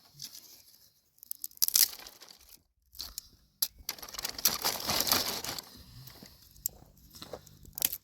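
Irregular crinkling and tearing sounds from something being handled and torn. The longest, loudest stretch comes about halfway through, with a few sharp clicks near the end.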